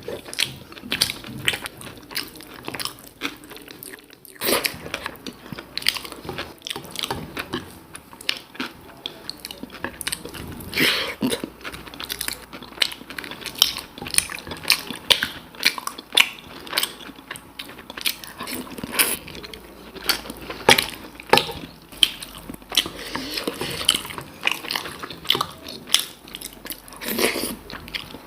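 A person chewing and biting food close to the microphone, with a steady run of irregular sharp crunches and clicks, several a second.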